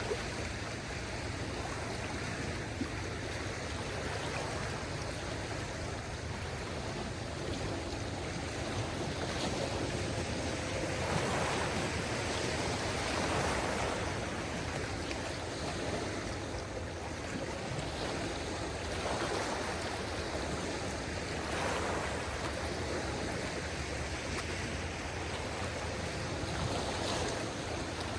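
Small waves of a calm sea washing steadily on the shore, swelling a few times, most strongly a little before halfway through.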